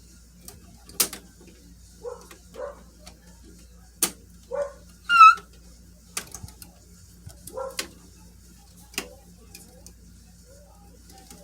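Sharp clicks and knocks of plastic toy pieces being handled, a handful spread out, among a few short soft vocal sounds. A brief high squeal about five seconds in is the loudest sound.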